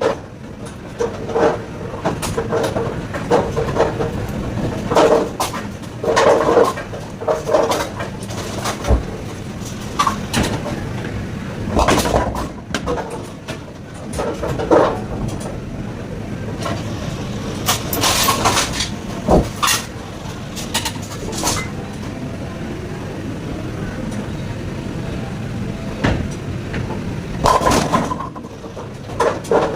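AMF 8290XL bowling pinsetter running: a steady machine din with repeated clacks and knocks from pins and deck parts as it spots and respots the pins.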